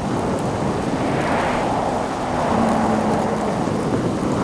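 A motor vehicle passing on a wet highway, its tyre and road noise swelling and fading over a steady rushing background. A short steady hum sounds in the middle as it goes by.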